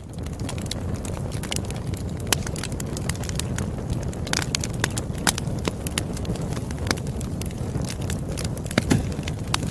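Wood campfire crackling: a continuous low rush of burning under frequent sharp pops and snaps, a few of them louder than the rest.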